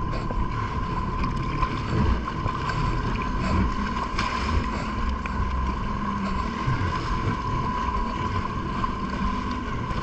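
Sea-Doo Spark jet ski running on the water, a steady high whine over a low engine rumble.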